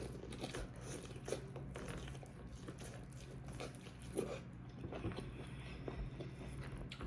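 A person chewing and biting food close to the microphone: irregular small wet clicks and crunches, over a steady low hum.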